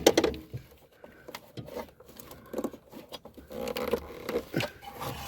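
Scattered light clicks, taps and rustling of things being handled, a few at a time.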